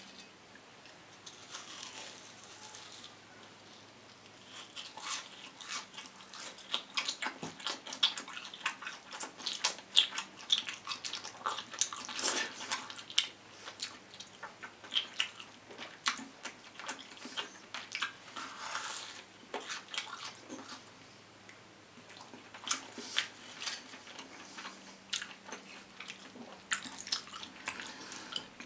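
Close-up crunching and chewing of a deep-fried, crumb-coated cheese dog: crisp crackling bites and chews, starting a few seconds in, with short pauses.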